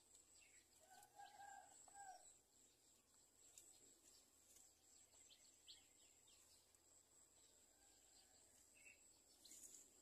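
Near silence: faint outdoor ambience with a steady high insect drone, and a faint distant bird call in two parts about a second in.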